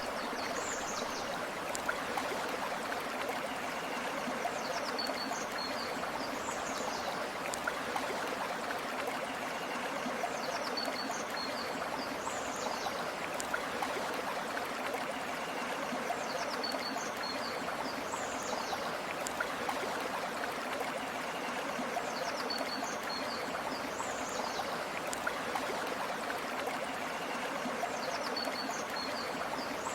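Steady rushing of river water flowing over stones. A short, high chirping call comes back about every five and a half seconds.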